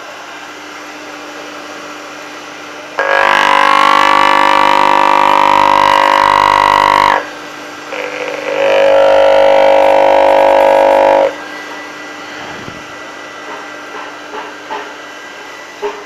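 Single-phase 2.2 kW, 220 V electric motor running with a steady hum and whine. It twice gets much louder for about four seconds, starting and stopping abruptly; the first time its pitch rises as it comes up to speed.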